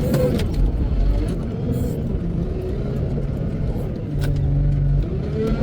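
Heavy diesel engine of a wheel loader working, its pitch rising and falling as it revs up and down over a steady low rumble, with a few short knocks.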